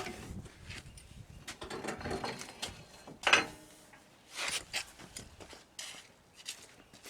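Irregular metal clanks, knocks and scraping from hand tools and steel suspension parts while a truck's rear leaf spring is being worked loose. The loudest is one sharp clank a little past three seconds in.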